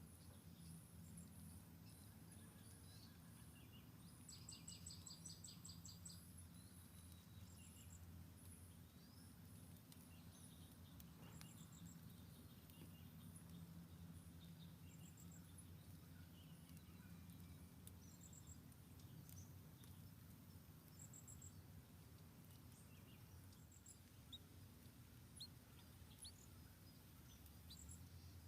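Faint, high bird chirps scattered throughout, with one short rapid trill of about eight notes near the start, over a steady low hum.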